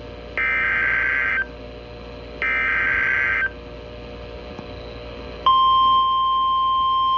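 NOAA Weather Radio alert signalling: two one-second bursts of warbling SAME digital header data. About five seconds in, the steady 1050 Hz warning alarm tone starts, marking a new warning about to be broadcast.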